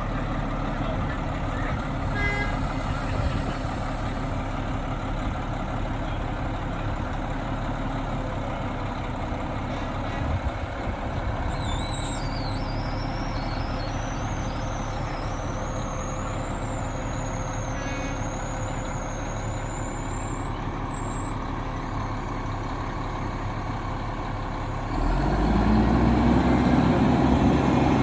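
A large engine running steadily, then growing louder with a rising pitch about 25 seconds in.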